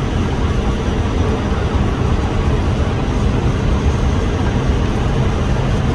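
Steady flight-deck noise of an Airbus A320 on short final approach: an even rush of airflow and engine rumble, heaviest in the low end, holding level throughout.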